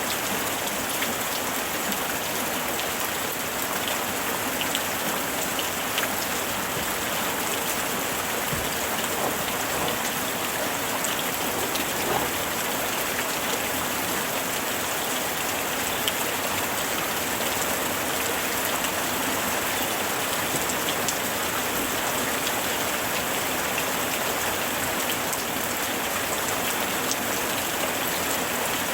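Steady summer rain falling, an even hiss with many small drops tapping on surfaces.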